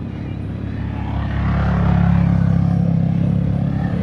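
A motor vehicle's engine droning steadily, growing louder about a second in as it draws near.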